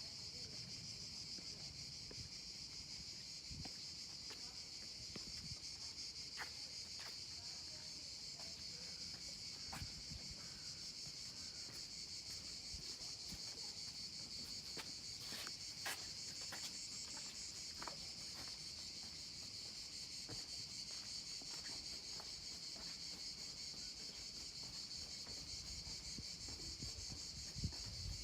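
A steady, high-pitched insect chorus buzzing without a break. Scattered light clicks sound here and there, a few of them clustered around the middle.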